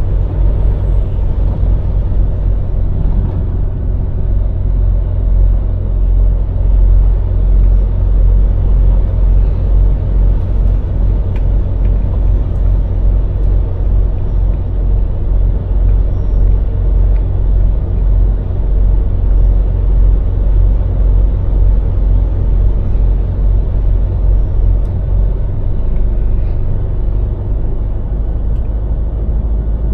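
Scania lorry's diesel engine running while driving, with a steady low rumble of engine and road noise.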